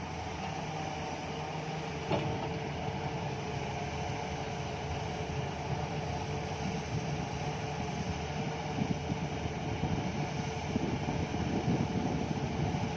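Heavy diesel engines of a mining excavator and dump truck running steadily during coal loading, with a rougher low rumble building through the second half.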